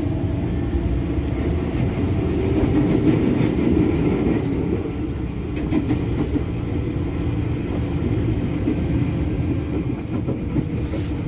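KRL Commuter Line electric commuter train running at speed between stations, heard from inside the carriage: a steady rumble of wheels on the track.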